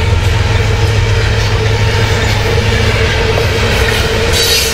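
Loaded covered hopper cars of a heavy potash train rolling past at track speed, a steady loud rumble of steel wheels on rail with a steady hum underneath. A brief high-pitched screech comes near the end.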